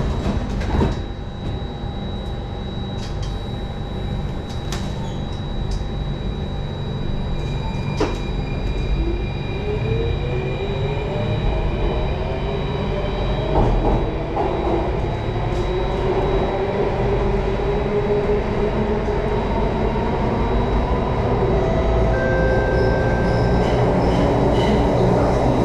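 Singapore MRT Circle Line train heard from inside the car as it pulls away from a station. The doors shut with a thump about a second in, under a steady low rumble of wheels on track. From about nine seconds in, the motors' whine rises in pitch as the train speeds up, with a few sharp clicks along the way.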